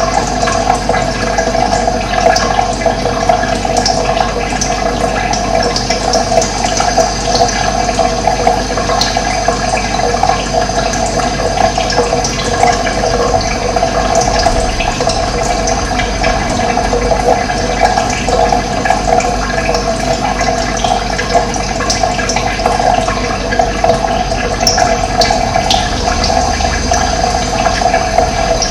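Running water: a steady, continuous rushing flow with no breaks.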